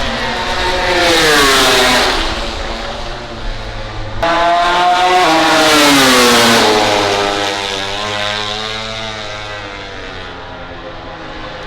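MotoGP racing motorcycles passing at speed, twice, each one's engine note dropping in pitch as it goes by, the second louder. After that a quieter engine hums on in the distance.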